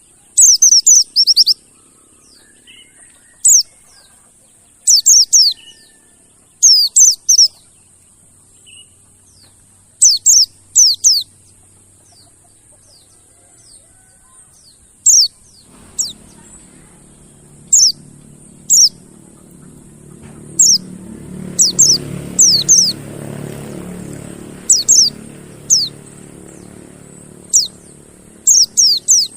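Mountain white-eye (pleci monty) calling: short clusters of quick, high, falling notes, repeated every second or two. A low hum builds up about halfway through and eases off near the end.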